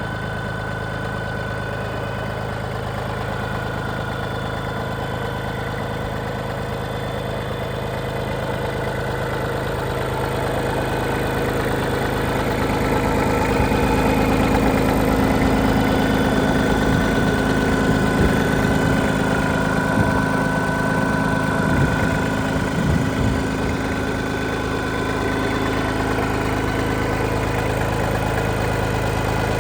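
Iseki TPC15 crawler tractor's engine running steadily. It grows louder about a third of the way in, with a few short knocks a little past the middle, then settles slightly lower near the end.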